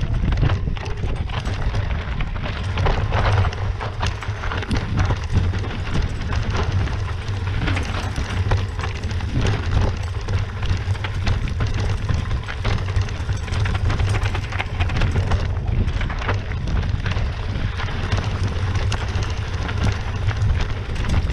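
Mountain bike riding over a rough, rocky trail: tyres crunching on loose stones and the bike rattling in many quick clicks over a steady low rumble.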